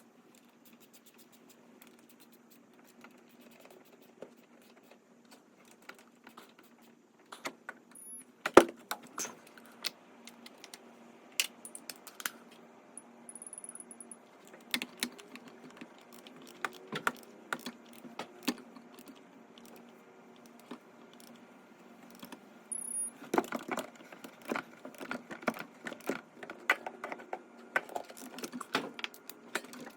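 Ratchet and socket wrenches clicking and metal tools clinking as the engine's injector hold-down bolts are run down and torqued: scattered sharp clicks, one loud one about eight and a half seconds in, and a busy run of clicks over the last several seconds, over a faint steady hum.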